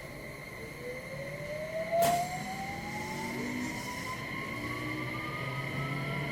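Hitachi IGBT VVVF inverter and traction motors of a JR West 227 series EMU accelerating under power, heard from inside the motor car. A steady high whine sounds with a second tone rising steadily in pitch. There is a single sharp click about two seconds in.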